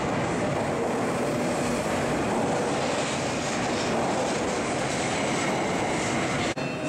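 Koleje Mazowieckie electric multiple unit pulling out of an underground platform, a steady rumble of wheels and traction motors echoing off the station walls as the carriages and rear cab pass close by. The sound breaks off for an instant near the end.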